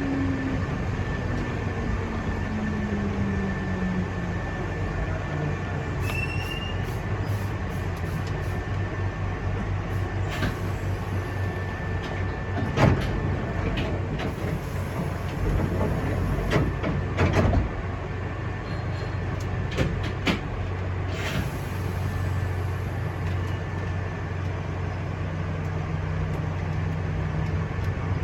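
Hankyu electric train's running noise: a steady rumble from the wheels on the rails, with the motor's whine falling in pitch over the first few seconds as the train slows. Sharp clicks and knocks come in the middle, and near the end a steady motor tone sets in again.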